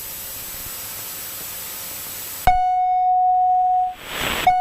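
Cessna 172 stall warning horn sounding steadily during the landing flare over a hiss of intercom noise. It cuts in suddenly about two and a half seconds in, drops out briefly with a short rush of noise near the end, then sounds again.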